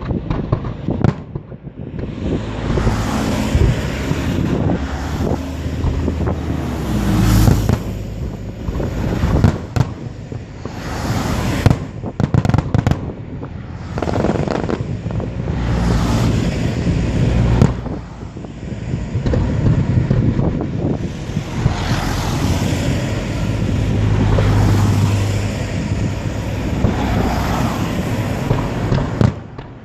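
Aerial fireworks bursting in quick, overlapping succession: a steady barrage of bangs and crackling with several louder booms along the way.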